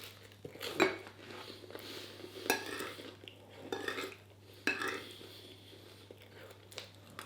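Cutlery clinking and scraping against a plate during a meal, a handful of separate knocks spread a second or so apart.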